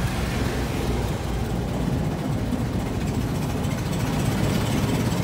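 1923 Ford Model T's four-cylinder side-valve engine running steadily at low speed as the car rolls slowly along.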